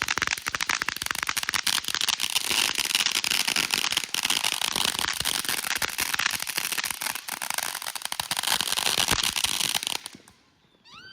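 Consumer fireworks going off in a dense, rapid crackle of pops, which stops suddenly about ten seconds in.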